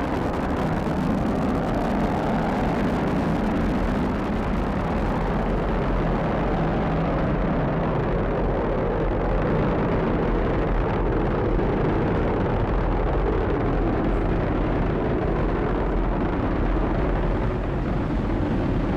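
Falcon 9 rocket's first stage, with nine Merlin engines, firing during ascent: a steady rumble heavy in the lows.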